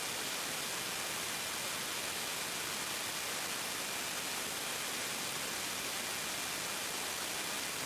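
Steady hiss of an aircrew intercom and radio feed with nobody talking, even throughout and strongest in the high end, with a faint thin tone held underneath.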